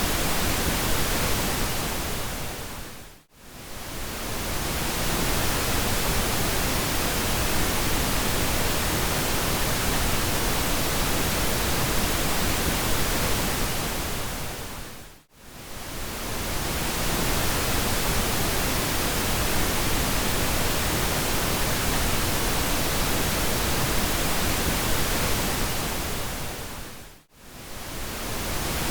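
Steady pink noise: an even hiss with plenty of low rumble. It fades down to near silence and swells back up three times, about every twelve seconds, with each dip lasting about a second.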